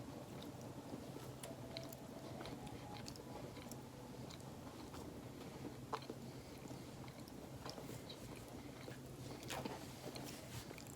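A person chewing a small soft muffin, with faint scattered mouth clicks over a steady low hum.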